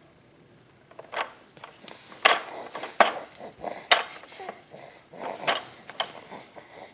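An irregular run of about six sharp knocks and clacks as a baby bangs on the toys of an activity bouncer seat.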